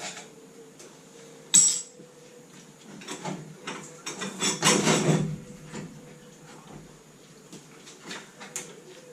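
Metal tools and parts clinking and clattering during work on a classic Mini engine: one sharp clank about one and a half seconds in, a run of clattering knocks in the middle, then a few light ticks.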